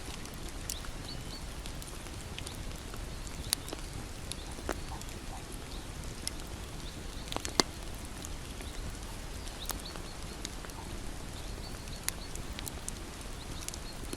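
Bonfire burning steadily with a low rumble, and wood crackling with irregular sharp pops, the loudest about halfway through.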